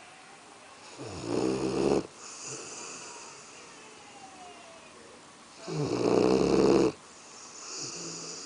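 A Labrador dog snoring in its sleep: two loud, rasping snores about a second long and roughly five seconds apart, with a softer snoring breath near the end.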